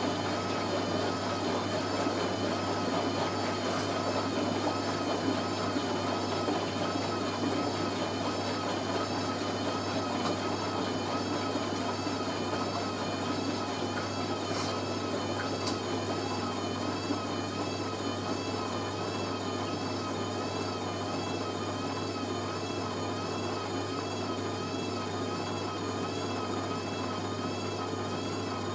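Hoover A3060 Electronic 1100 washing machine's motor driving the drum in the low-speed first burst of the final spin: a steady hum with a whine that wavers regularly in pitch as the drum turns.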